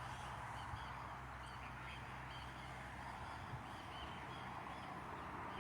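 Distant waterbirds calling: a string of faint short calls, a couple a second, over a steady background hiss.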